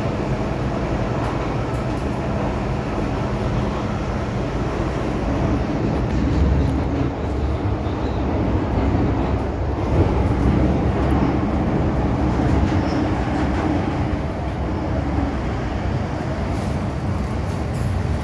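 MTR M-Train running on the rails, heard from on board: a steady low rumble of wheels and running gear with a faint steady hum from the traction equipment.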